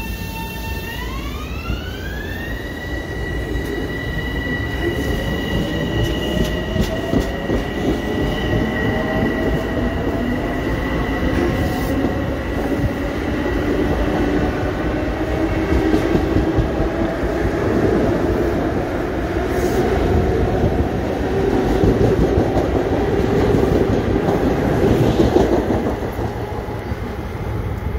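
Long Island Rail Road M7 electric train pulling away and gathering speed. Its high traction whine rises in pitch over the first couple of seconds and then holds steady, over a lower motor hum that climbs with speed. The wheels run loud over the rails as the cars pass, and the sound eases off near the end as the last car moves away.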